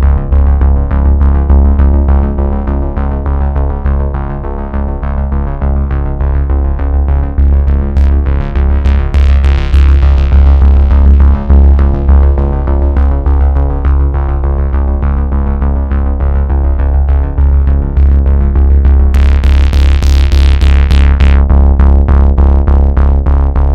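Loud electronic dance music with a heavy, booming bass and a fast, driving beat, as played through a carnival sound system. A rushing sweep rises over the beat about eight seconds in, and another near the end.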